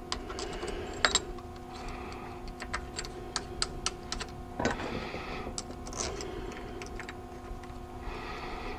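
Irregular light clicks and taps of small metal parts as a car starter motor is handled and its housing bolts are fitted, over a steady low background hum.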